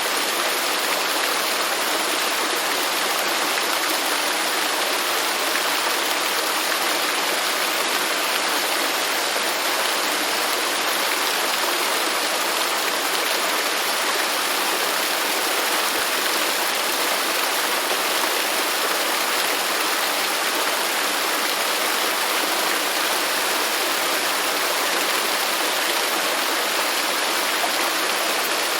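Waterfall: a steady, even rush of falling and splashing water with no breaks or changes.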